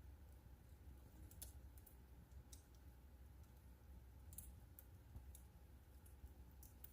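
Wood fire crackling faintly: scattered sharp pops and snaps at irregular intervals, about one to two a second, over a low steady rumble.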